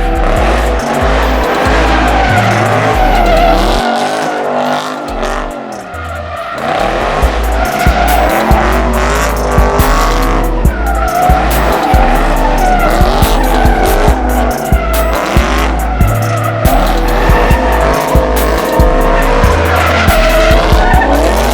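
Car tyres squealing in long, wavering screeches as cars slide and spin, mixed with loud music with a heavy bass beat.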